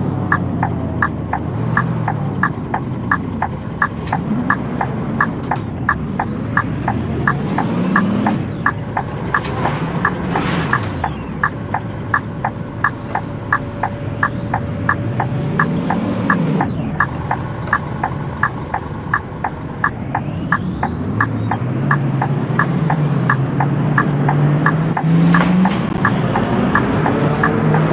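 Scania K230UB bus's diesel engine pulling away and climbing through the gears, its pitch rising and dropping back at each change, with a rising whine over each gear. A regular ticking about twice a second runs underneath.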